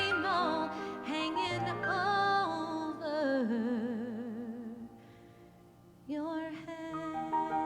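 A solo singer sings a closing phrase with wide vibrato over sustained keyboard accompaniment. The voice drops to a long, low, held final note that fades out. After a short near-silent pause about six seconds in, the accompaniment starts again with steady sustained notes.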